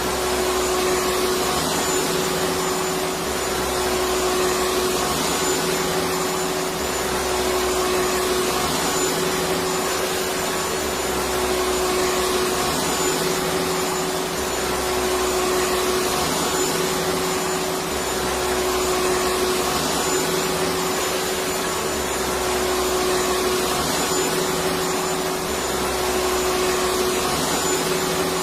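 Electric vacuum cleaner running continuously: a steady rushing drone with a constant mid-pitched whine, and a faint low pulse repeating every two seconds or so.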